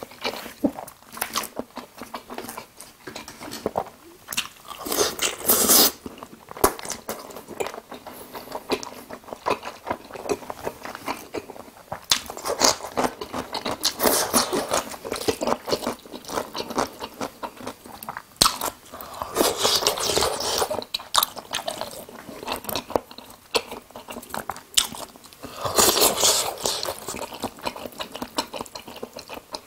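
A person chewing and crunching a meal of jajangmyeon black-bean noodles and crisp fried tangsuyuk pork, close to a clip-on microphone. Steady chewing clicks throughout, with four louder stretches of a second or two.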